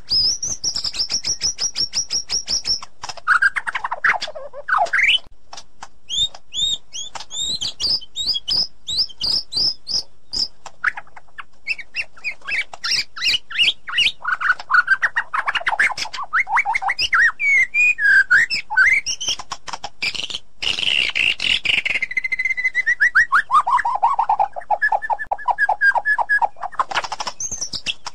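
White-rumped shama singing a long, varied song: fast runs of repeated notes, sweeping whistles and chirping phrases, ending in a long series of falling notes.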